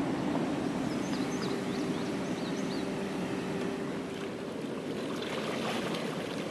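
Freight train cars rolling past with a steady rumble, and a steady hum that stops about four seconds in.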